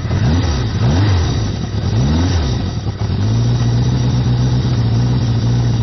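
1979 Yamaha XS1100's inline-four engine, slightly warm, just fired up: it is revved three times in quick succession, then settles into a steady idle about three seconds in.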